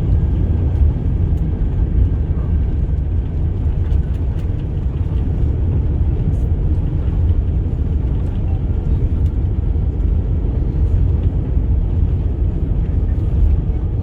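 Steady low rumble of an Airbus A350-900 heard from inside the passenger cabin during the arrival into Perth.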